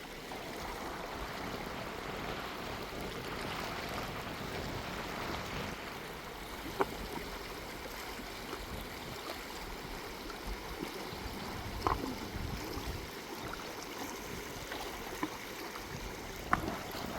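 River water rushing steadily, with three short sharp sounds: about seven seconds in, about twelve seconds in, and near the end.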